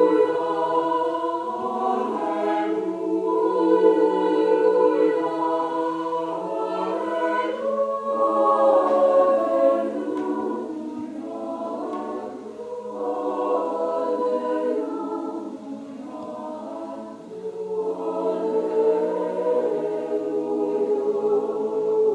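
Choir singing a piece in held, sustained chords over a steady low note.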